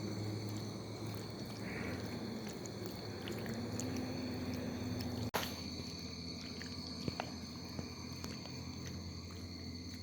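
Outdoor ambience with a constant high insect drone over a low steady hum, broken by a sharp click about five seconds in and a few lighter clicks near the end.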